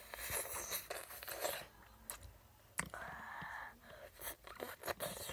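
Close-up crunching and chewing of a crisp snack, an irregular run of crackles and clicks.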